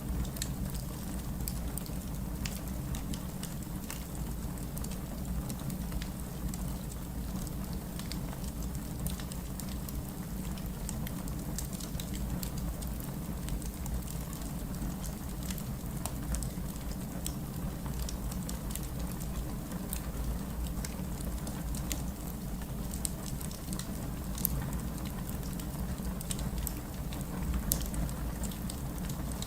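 Heavy rain falling steadily, mixed with a fireplace fire crackling, its small sharp snaps and pops scattered irregularly throughout.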